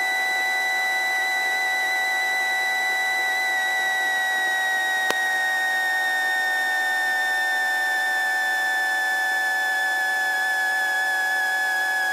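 Helicopter whine heard through the cabin intercom: a steady high-pitched tone whose pitch starts to slowly fall about four seconds in, as the machine begins winding down after its post-landing cool-down. A single sharp click comes about five seconds in.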